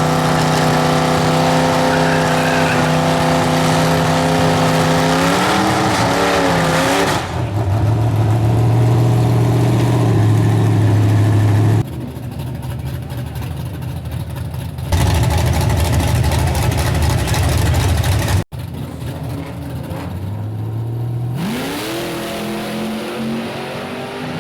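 Chevy S10 race truck's engine held at steady high revs for several seconds, then broken by abrupt cuts between different engine sounds, with a rising rev near the end.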